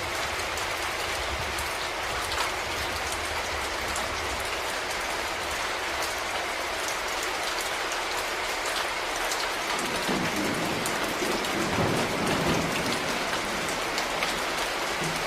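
Steady rain, with many separate drops ticking on a nearby surface. A low rumble of thunder comes in about two-thirds of the way through.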